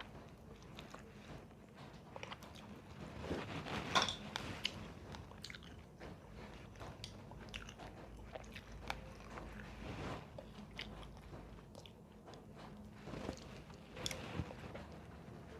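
A person chewing and biting food, with many small clicks throughout and louder moments about four seconds in and near the end.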